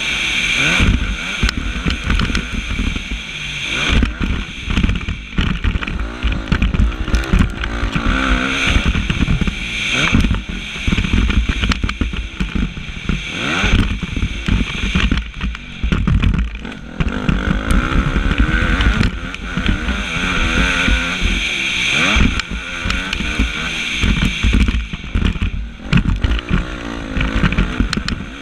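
Motocross bike engine, heard from an on-board action camera, revving up and down over and over as the rider accelerates and backs off around the track, with frequent short knocks.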